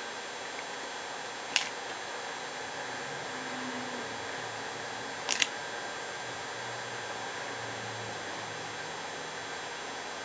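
Steady hiss with two short, sharp clicks, one about a second and a half in and a quick double click about five seconds in.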